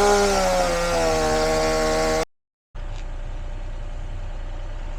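Gas chainsaw running after being knocked back into working order: it revs up and holds a steady speed for about two seconds. The sound then cuts off abruptly, and a quieter, steady engine drone follows.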